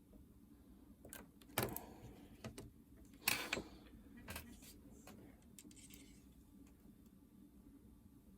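Light clicks and taps of small tools and parts being handled on a workbench, with two louder knocks about a second and a half and three seconds in, over a faint steady hum.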